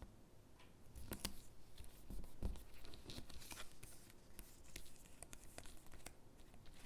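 Stickers being peeled off their backing sheet and pressed onto paper cutouts: light paper rustling and crinkling with scattered small taps and clicks, and a soft thump about two and a half seconds in.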